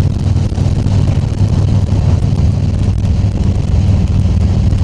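Harley-Davidson Tri Glide Ultra trike's Milwaukee-Eight V-twin engine running steadily while cruising, a low even rumble.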